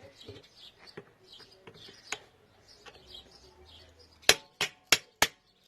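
Hammer tapping a steel universal-joint bearing cap back into the driveshaft yoke, metal on metal: first only faint handling clicks, then, near the end, a quick run of five sharp taps about three a second, each with a short metallic ring.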